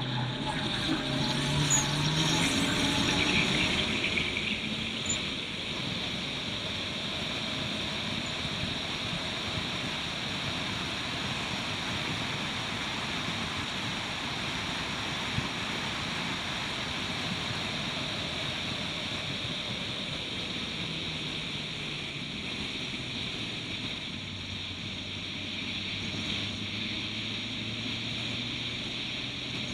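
Turbocharged Suzuki Swift race car running at speed on track. The engine note is loudest and changes pitch in the first few seconds, then sits low under a steady rush of wind and road noise.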